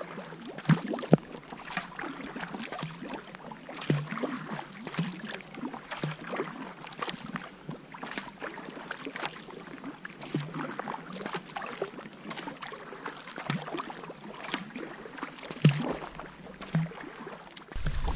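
Kayak paddling: the paddle splashes and drips in the lake water with irregular strokes and occasional sharper knocks. Just before the end, wind rumble on the microphone comes in.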